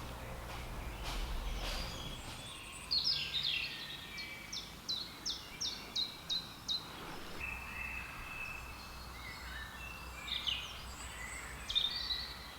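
Woodland birds singing: a run of about eight short, repeated high notes, a few a second, then more varied phrases later on.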